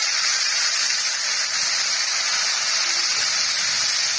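Sliced onions and tomato frying in hot oil in an aluminium karahi, a steady sizzle.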